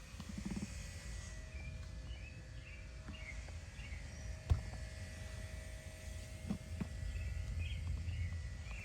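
Outdoor background: a steady low rumble with birds chirping on and off, and a few light clicks, the sharpest about four and a half seconds in.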